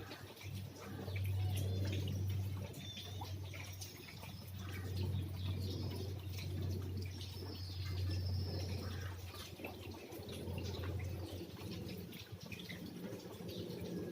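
Rain dripping in many small scattered ticks, with birds chirping now and then. A low steady hum runs underneath and weakens near the end.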